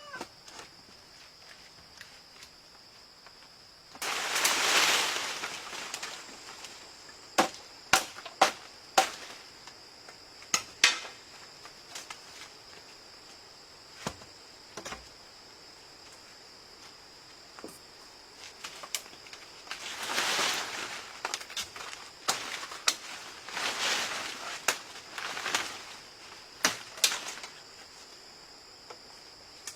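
Sharp knocks from handwork in a quick cluster and again near the end, with a few longer noisy swells of a second or two between them, over a steady high insect drone.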